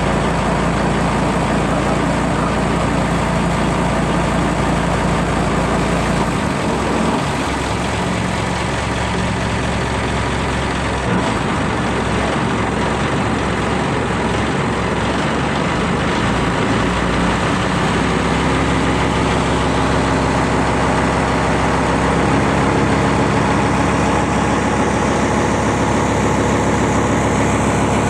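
Motor ship's engine running steadily, a loud continuous drone with a low hum whose pitch shifts about seven seconds in and again about seventeen seconds in.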